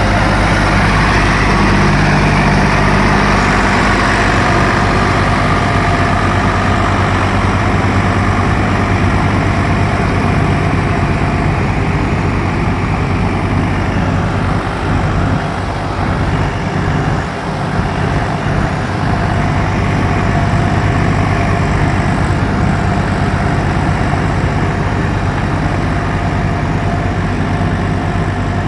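Swaraj 855 tractor's diesel engine running steadily under heavy load, pulling a fully loaded trolley through mud. The engine note eases and turns uneven for a few seconds about halfway through, then steadies again.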